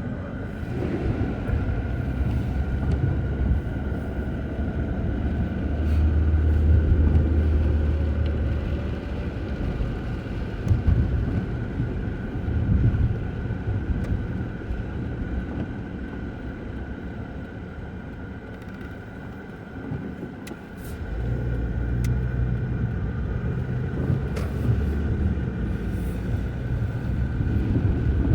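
Low rumble of road traffic, swelling twice as vehicles go by.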